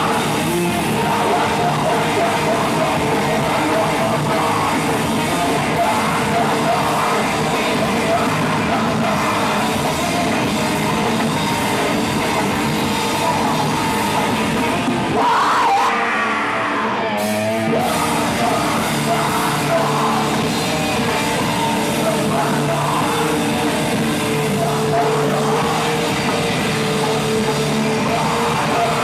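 A live rock band playing a loud, heavy song with shouted vocals over guitars and drums. About fifteen seconds in, the low end drops out for roughly two seconds before the full band comes back in.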